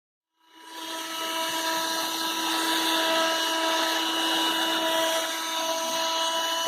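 Black & Decker AV1205 12-volt car vacuum cleaner switched on: its motor spins up about half a second in and runs with a steady whine over a hiss of rushing air.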